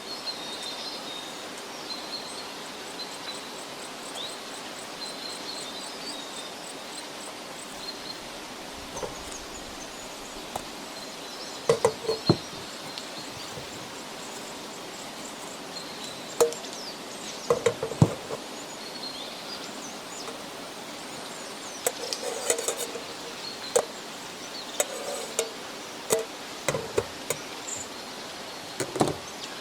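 Forest background with faint bird chirps, broken by sharp knocks and clinks: a few about twelve seconds in, more around sixteen to eighteen seconds, and a denser run from about twenty-two seconds on.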